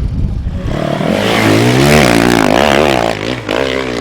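Dirt bike engine revving hard, its pitch rising and falling several times as the throttle is worked, then dropping back near the end.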